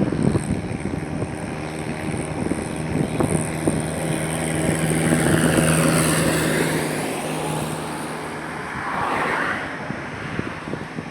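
Highway traffic, with a motor vehicle passing close by: its steady engine hum builds to its loudest a little past halfway, then fades as it goes by.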